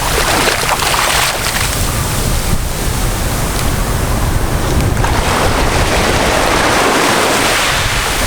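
Sea surf washing onto the beach, with a louder wash swelling about two-thirds of the way through, and wind buffeting the microphone with a low rumble.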